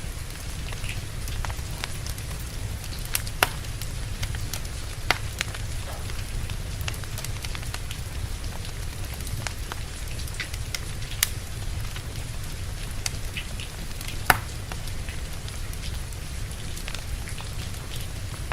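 Steady rain with a wood fire crackling over it, the crackles scattered and irregular, with a few louder sharp pops spread through, over a constant low rumble.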